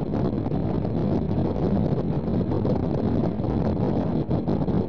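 Steady rumble of a steam-hauled passenger train under way, heard from an open carriage window, with wind buffeting the microphone.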